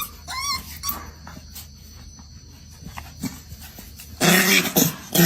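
A dog whining in high wavering yelps during the first second, then loud rough huffing bursts, bark-like, about four seconds in.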